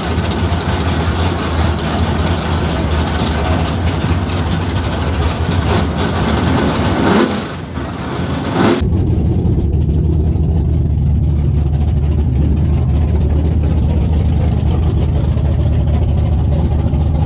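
Drag-racing car engines idling loud at the starting line over crowd noise, with one engine revving briefly about seven seconds in. After an abrupt cut about nine seconds in, a single engine idles steadily close by.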